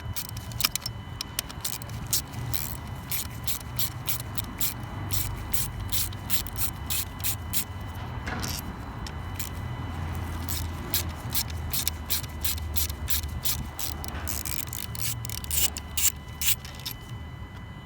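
Hand ratchet clicking in long runs of quick clicks while two T30 Torx screws are undone on the engine's intake manifold, over a steady low hum.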